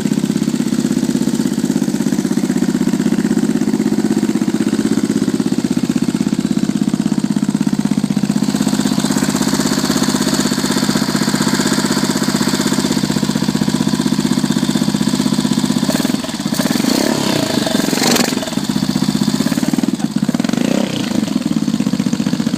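Yamaha XT600 single-cylinder four-stroke engine, built with a JE 97 mm piston, stage 2 cam and S&S Shorty carburettor, idling steadily. Its note goes briefly uneven about sixteen seconds in and again near the end.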